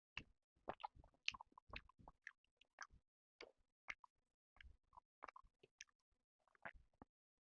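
A person chewing a mouthful of chicken and rice: a quick, irregular run of short mouth clicks and smacks, several a second.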